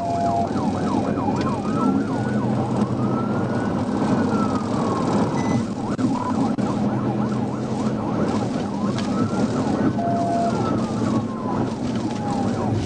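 Police patrol car siren wailing in slow rising and falling sweeps, roughly one rise and fall every five seconds, over steady road and engine noise.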